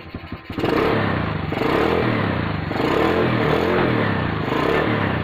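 Honda EX5 motorcycle engine idling with an even beat, then, about half a second in, revved up and down several times with the pitch rising and falling.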